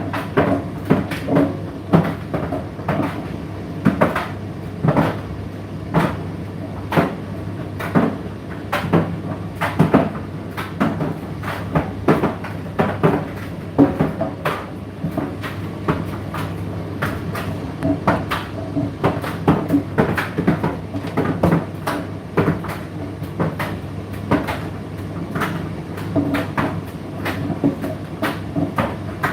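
Indesit IDC8T3 condenser tumble dryer running: a steady motor hum with the load tumbling in the drum, giving irregular knocks about one or two times a second.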